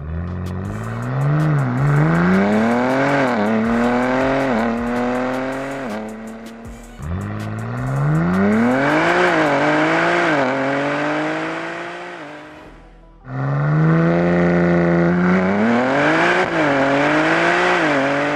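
BMW G80 M3's S58 twin-turbo inline-six through an IRL modular catback exhaust and 400-cell downpipes, accelerating hard in three pulls. In each pull the pitch climbs and drops back at every upshift, and the first two fade away as the throttle comes off.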